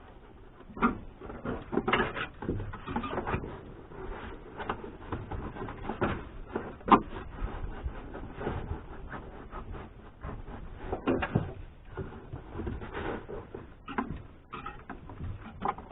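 Irregular rustling, scraping and light knocks of hands working the car's interior headliner free from the roof, with one sharper knock about seven seconds in.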